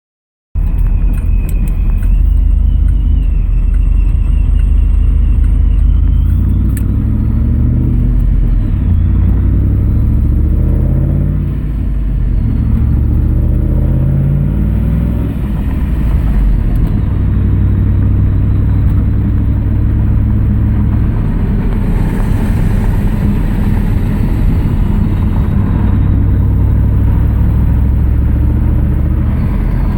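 Vehicle engine and exhaust running loud and deep, the exhaust with its leaks fixed. Its pitch rises and falls several times through the middle as it revs or pulls through gears. A thin whine climbs in pitch over the first few seconds.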